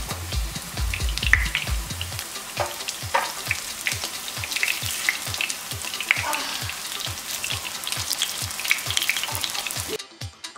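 Potato hash brown patties sizzling and crackling in shallow oil in a nonstick frying pan, with louder pops now and then. A steady music beat runs underneath, and near the end the frying stops and only the music goes on.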